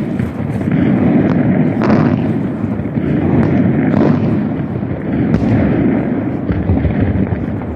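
Fireworks display going off: a string of bangs, one every half second to second, over a continuous rumble of explosions.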